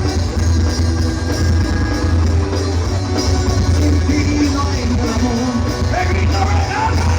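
Rock music: a band playing with a heavy, steadily pulsing bass, with singing.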